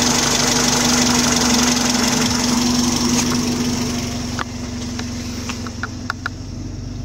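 Old car's petrol engine idling at about 700 rpm, its speed wavering up and down, while the idle is being set slightly lower to the factory 700 ± 50 rpm. A steady hum with hiss above it; the level drops about four and a half seconds in, and a few light clicks come near the end.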